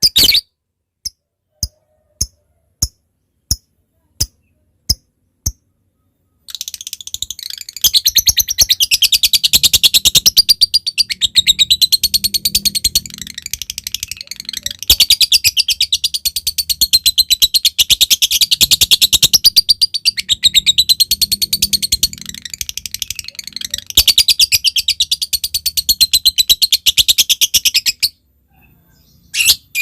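Lovebird singing: first a run of single sharp chips about one every two-thirds of a second ('ngetik'), then from about six seconds in a long, very rapid chattering trill with wavering pitch ('ngekek panjang'), briefly broken twice, that stops shortly before the end.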